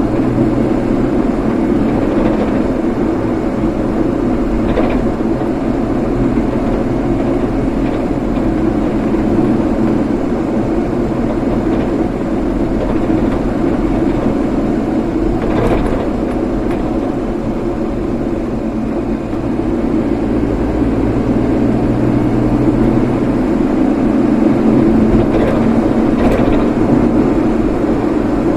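A vehicle driving steadily along a road: continuous engine hum and road noise, with a few faint brief ticks.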